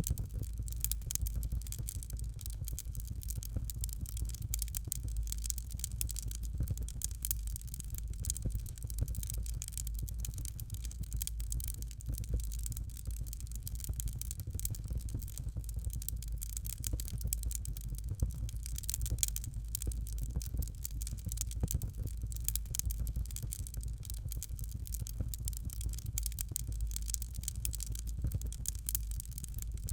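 Fire crackling in a fireplace: a continuous stream of small irregular crackles and pops over a steady low rumble.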